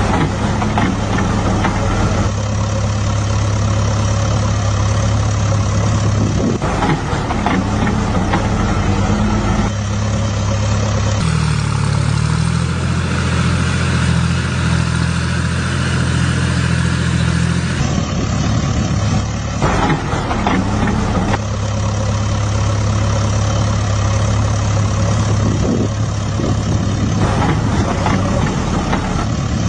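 Tractor engine running at a steady speed. Its tone changes abruptly several times, each time settling into a new steady note.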